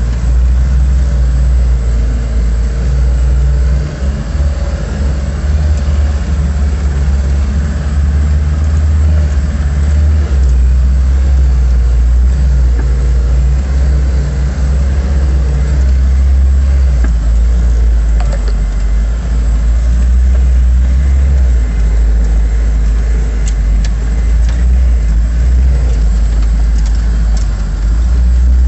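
LuAZ with a VAZ-21083 four-cylinder petrol engine, running steadily as it drives, with a heavy low rumble throughout and a brief dip in level about four seconds in.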